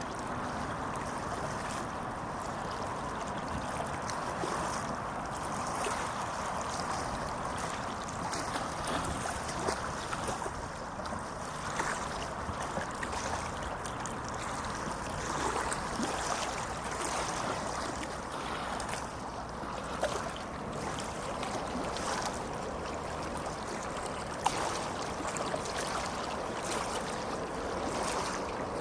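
A tram running steadily, with an even rolling hiss and a few light clicks.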